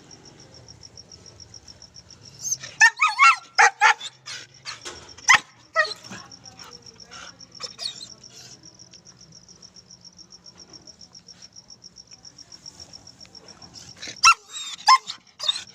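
German Shepherd puppy barking and yipping in short bursts, a cluster about two to six seconds in and another near the end, over a steady high-pitched pulsing trill.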